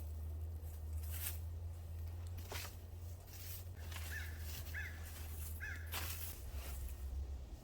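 Rustling and crackling from handling brush or burlap, with a steady low rumble; a bird calls three short times in the middle.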